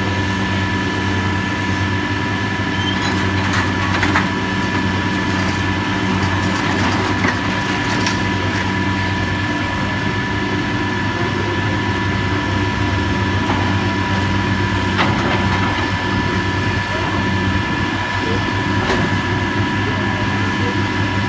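Heavy demolition machinery running steadily, a deep engine hum with a steady high whine over it and a few light knocks.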